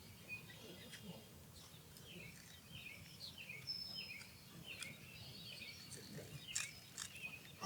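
Osprey calling: a fairly faint series of short, falling whistled chirps, repeated a few times a second. Two sharp clicks come near the end.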